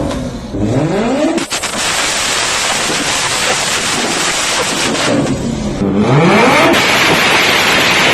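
Toyota Supra MK4's turbocharged 2JZ straight-six engine accelerating hard with a loud exhaust. Its pitch climbs steeply twice, about a second in and again about five seconds in, with a dense, even exhaust noise at high revs in between.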